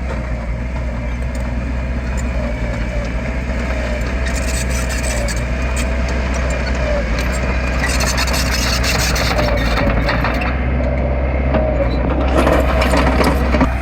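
Heavy earthmoving machine's diesel engine running steadily, with a wavering whine over its low hum and noisier, harsher stretches about eight and twelve seconds in.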